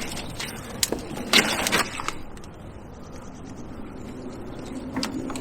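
A few short knocks about a second in, then a brief burst of clattering and scraping, followed by low steady outdoor noise and one more click near the end.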